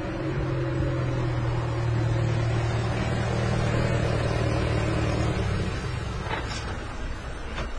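Steady low drone of a motor vehicle's engine running, which fades away about six seconds in. A few short clicks or knocks follow near the end.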